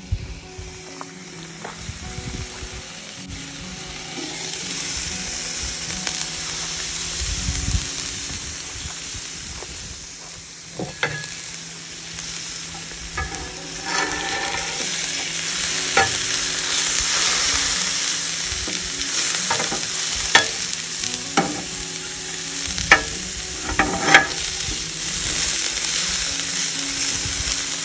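Chicken pieces and sliced carrots and celery sizzling on a Blackstone griddle's steel cooktop, the hiss growing louder after a few seconds. A metal spatula stirring the vegetables clicks and scrapes sharply on the steel several times in the second half.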